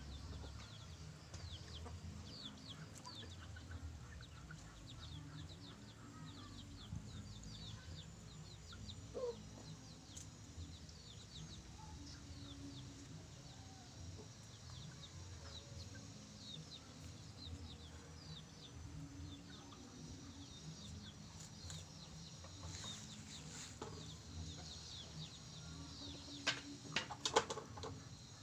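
Faint bird chirping: many short, high, falling calls repeated over a low background rumble, with a few sharp clicks near the end.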